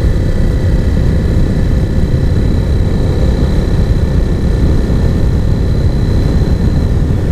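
Husqvarna Svartpilen 401's single-cylinder engine through an Arrow aftermarket exhaust, riding at a steady pace with a deep, even drone, mixed with wind rush on the microphone.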